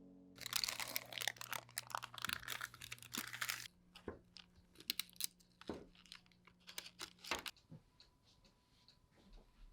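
Dense crinkling and rustling handling noise for about three seconds, then scattered sharp clicks and taps that thin out and stop a couple of seconds before the end.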